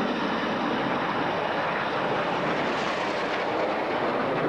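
Aermacchi MB-339 jet trainers flying past in formation: a steady rush of jet noise whose upper range swells a little around the middle.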